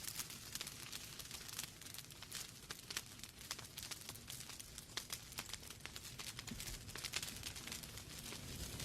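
Logs burning in a fireplace, crackling with many small, irregular snaps and pops over a soft low rush of flame.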